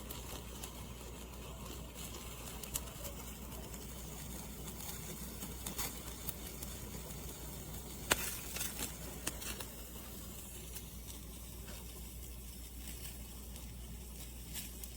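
Steady low hum with faint background noise, broken by scattered light clicks and taps. The sharpest click comes about eight seconds in, followed by a few smaller ones.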